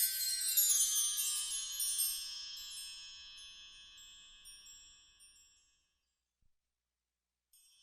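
A shimmering cascade of high chime tones that rings out and fades away over about five seconds into silence. A fresh shimmer of chimes starts right at the end.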